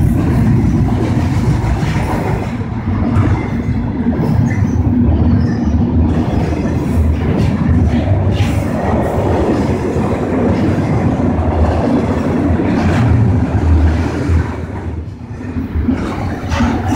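A CN double-stack intermodal freight train rolling past at close range. Its wheels on the rails make a steady low rumble, with scattered sharp clacks. It turns briefly quieter near the end.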